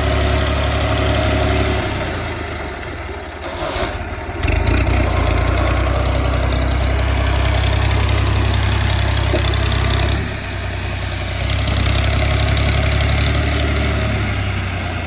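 Tractor diesel engine running hard. It eases off about two seconds in and again about ten seconds in, then picks back up each time.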